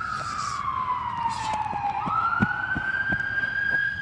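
An emergency vehicle siren wailing. Its pitch slides slowly down for about two seconds, sweeps back up about halfway through, and holds high near the end.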